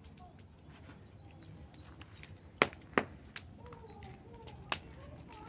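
Bonfire burning with a few sharp pops from the wood, four in all from about two and a half seconds in, over faint, high, repeated chirps.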